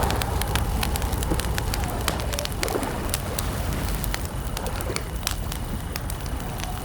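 Wood campfire crackling with irregular sharp pops over a low rumble, with crickets chirping faintly. A few soft, low gliding tones come and go.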